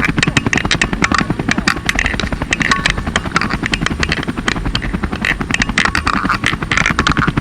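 Strong wind with a dense, rapid rattling or flapping that keeps on steadily over a low rumble.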